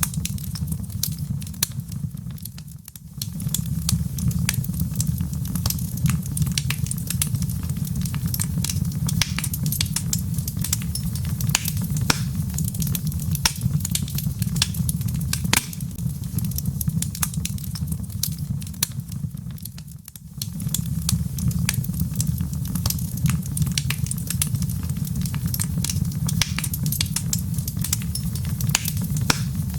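Wood fire in a fireplace: logs crackling and popping in quick irregular snaps over a steady low rumble of flame. The sound dips briefly twice, about 3 and 20 seconds in.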